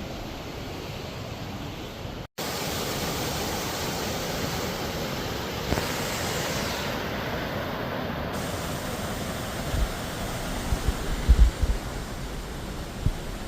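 Steady rushing roar of a waterfall. In the last few seconds a few short low thumps sound on the microphone.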